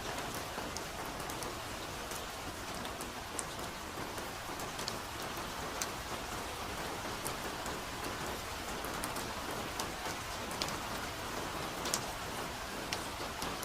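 Steady soft rain falling in a forest, an even hiss with many close drops ticking and pattering on leaves.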